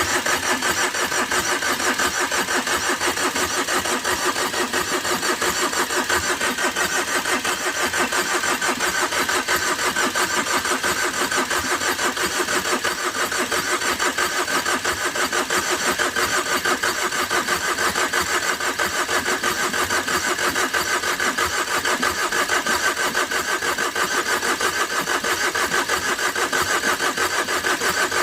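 Tata Vista's diesel engine cranking on the starter motor in one long, steady crank that never catches. The owner takes the failure to start for weak compression, probably from a blown head gasket after overheating.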